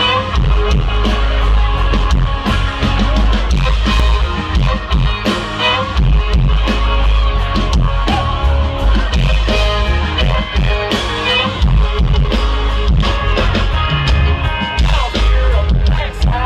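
Live country band playing loud, with a regular drum beat and heavy bass.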